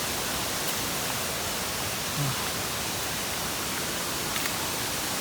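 Steady hiss of falling water, an even rushing noise that stays level throughout.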